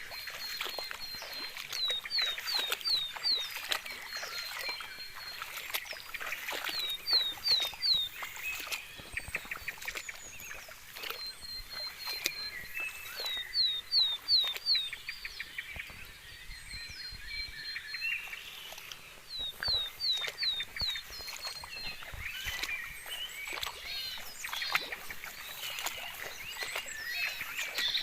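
Birds calling. One songbird repeats the same high phrase about every five to six seconds: a quick run of identical short notes, then four or five downward-slurred whistles. Other chirps and calls sound in between.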